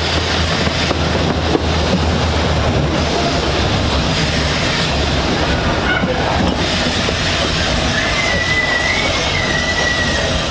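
Steady rumble of a miniature-gauge train running on the track, with a wavering high-pitched wheel squeal about eight seconds in that lasts about two seconds.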